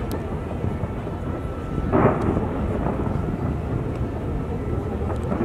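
Fireworks exploding: a steady low rumble of bursts, with one louder boom about two seconds in and a few faint crackles.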